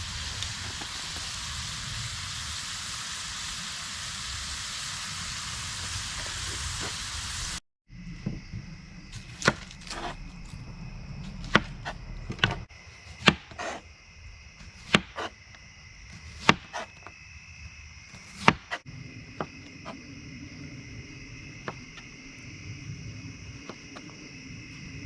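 Meat sizzling steadily in a hot skillet. After an abrupt cut, a series of sharp knocks comes about once a second, a knife chopping on a cutting board, with a steady high insect trill behind it.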